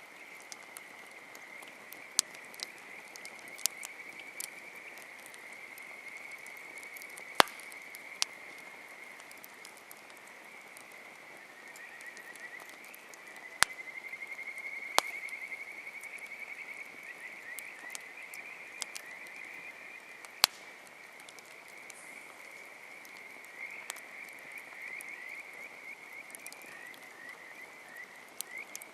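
Frogs calling in a steady, pulsing chorus, with sharp pops and crackles from a wood campfire breaking through now and then.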